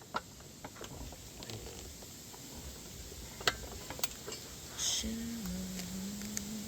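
Scattered clicks and knocks of hand tools and metal bike parts being handled, the sharpest about three and a half seconds in. A low, steady hummed tone with small pitch steps follows for the last second and a half.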